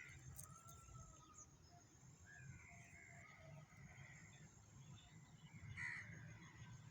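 Faint, scattered calls of several birds, with one louder call about six seconds in, over a low steady rumble.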